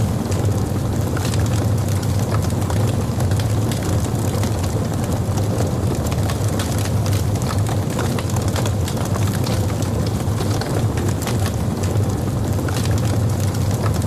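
Logs burning in a fireplace: a steady low rumble of flame with frequent small crackles and snaps scattered throughout.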